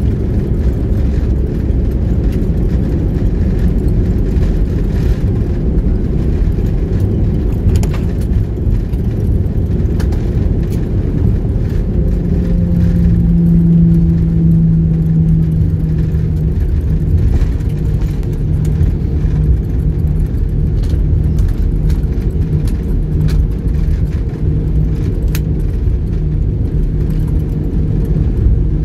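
Jet airliner cabin noise on the ground after landing: a loud, steady low rumble of the engines and the rolling aircraft, with a steady low hum coming in about halfway through.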